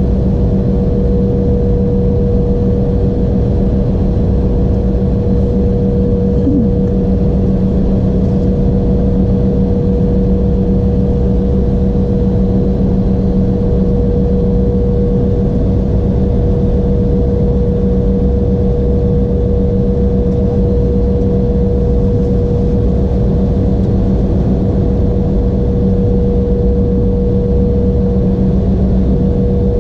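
Embraer E175 jet engines running steadily, heard inside the passenger cabin as an even rushing drone with two unchanging hums, one low and one higher.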